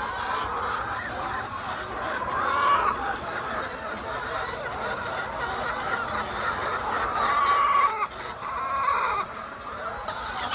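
A flock of laying hens clucking and calling, many birds overlapping without a break.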